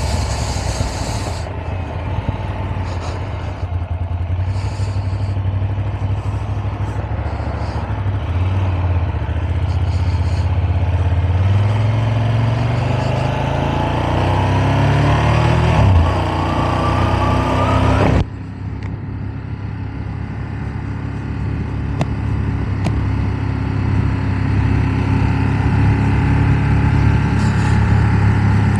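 Ducati Monster 1200's V-twin engine heard from inside the rider's helmet while riding, with heavy wind noise; the engine pitch climbs steadily under acceleration for several seconds before dropping back at a gear change. About two-thirds of the way through, the hiss of wind cuts off abruptly and the engine drone continues more muffled.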